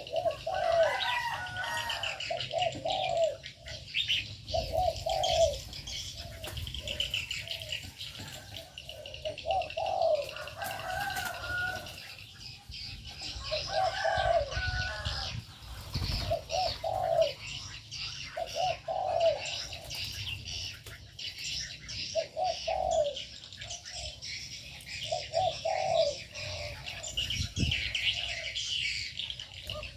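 Aviary birds: doves cooing in short repeated phrases every second or two, over continuous high chirping and twittering from small birds.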